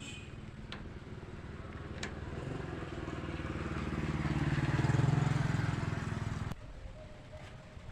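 An engine running, growing louder to a peak and then cutting off abruptly about six and a half seconds in.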